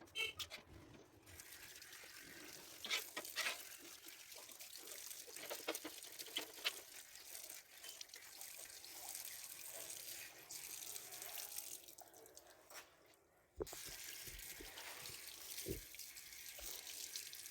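Tap water running and splashing as glass fridge shelves are washed by hand, with a few sharp knocks of glass or plastic. The water cuts out briefly about two-thirds of the way through.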